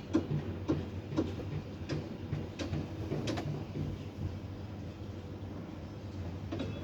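Steady low machine hum, with a run of sharp clicks about every half second that stop about three and a half seconds in.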